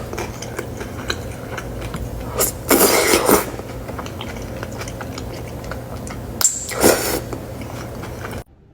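Close-miked eating of cheesy food: wet chewing and biting, with two louder bursts of biting, the first about a third of the way in and the second about two-thirds in. A steady low hum runs under it, and the sound cuts off abruptly near the end.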